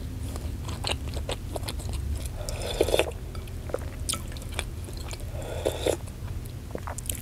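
Close-up mouth sounds of chewing a beef-tendon meatball (bakso urat): wet smacks and clicks as it is chewed, with a soft sip of broth from the spoon near the end.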